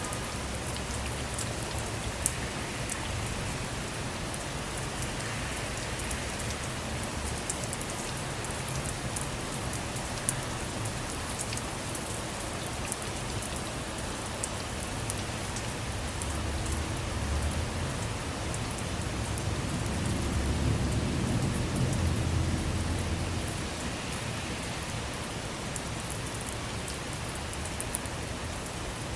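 Steady rain falling, with scattered sharp drop ticks. About sixteen seconds in, a low rumble of distant thunder swells and fades again some eight seconds later.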